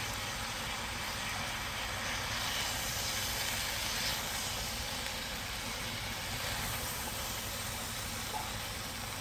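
Chopped cabbage sizzling and steaming in a soup pot as it wilts down, a steady hiss.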